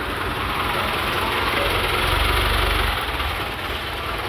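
An engine idling, its steady low rumble under an even hiss.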